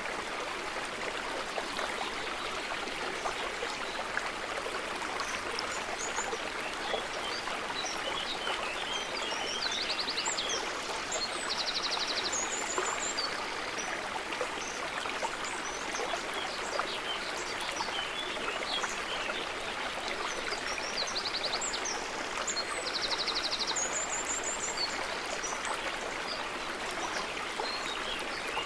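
Small stream running steadily, with birds chirping above it. Short high chirps and brief trills come in two clusters, about a third and about three quarters of the way through.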